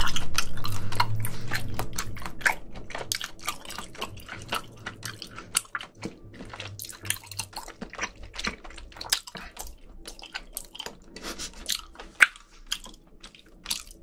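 Close-up wet chewing of raw squid dipped in chojang: dense, irregular sticky clicks and smacks from the mouth, which the eater calls really soft. It opens with a loud thump right at the start.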